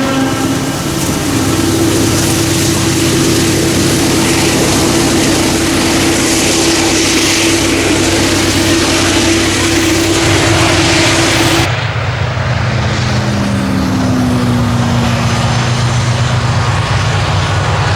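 Diesel freight train running, a steady engine drone with a held tone over wheel and rail noise. About two-thirds of the way through, the sound changes abruptly: the hiss drops away and a lower, slowly shifting engine note takes over.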